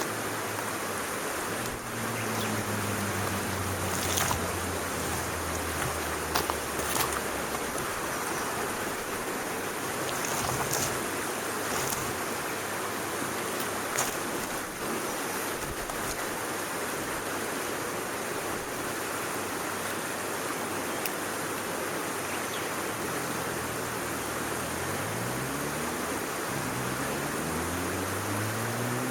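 Wood fire burning in a backpacking wood stove: a steady rushing hiss with scattered sharp crackles and pops. A low hum rises in pitch several times near the end.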